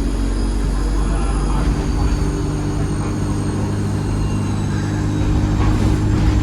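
ADL Enviro 200 single-deck bus engine running under way, with a steady low drone and a high-pitched turbocharger whistle in several thin tones that slowly fall in pitch.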